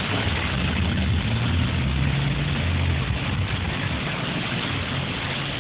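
Strong gusty wind rushing steadily, with a low rumble underneath.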